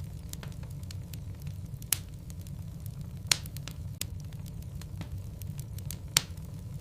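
Wood logs burning in a fireplace: a steady low rumble of flame with scattered crackles and three louder pops, about two, three and six seconds in.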